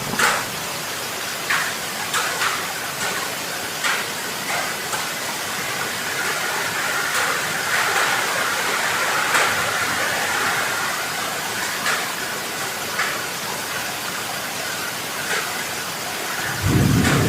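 Heavy rain falling as a steady hiss, with scattered sharp drip ticks. Near the end a louder, deeper rushing noise cuts in suddenly.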